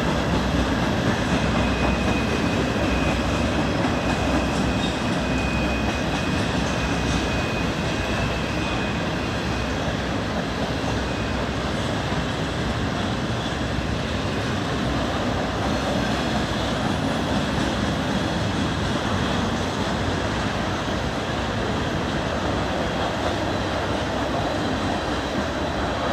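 Railroad train rolling past: a steady, loud rumble of cars on the rails, with a thin high wheel whine in the first few seconds.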